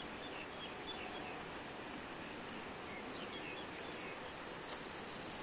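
Steady background hiss with a few faint, short, high bird chirps about a second in and again around three seconds in, and a sharp click near the end.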